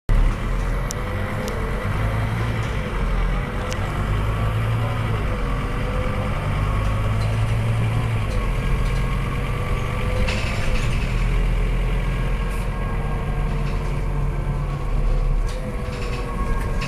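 Scania K230UB single-deck bus's diesel engine running with a steady low drone whose pitch wavers up and down a little, with a few light clicks and rattles.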